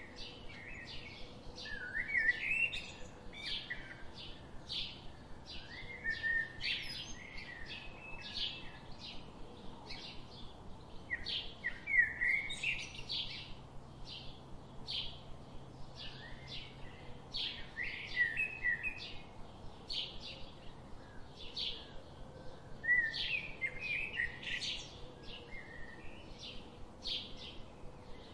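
Birds chirping: short high chirps repeated about twice a second, with a lower warbling phrase every few seconds.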